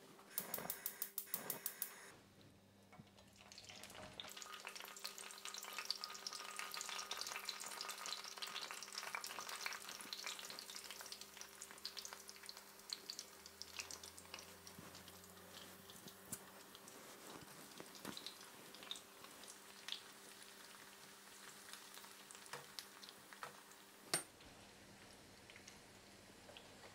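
Cubed eggplant deep frying in a pan of oil, a steady fine sizzle with scattered crackles and pops. It is preceded by a quick run of clicks in the first two seconds, and there is a single sharp click near the end.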